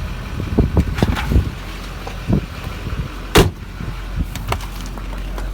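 Pickup truck doors being handled: a series of clunks and latch clicks, the sharpest about three and a half seconds in, over a steady low hum from the truck's diesel idling.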